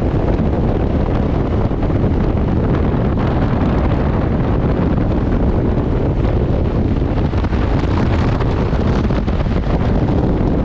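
Wind rushing over the microphone on a moving motorcycle, steady throughout, with the Benelli TRK 702's parallel-twin engine running low underneath at road speed.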